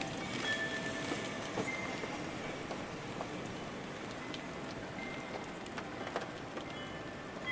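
Steady rain, a dense hiss with many distinct drop hits ticking through it. A few faint wind-chime notes ring out over it, once near the start and again past the middle.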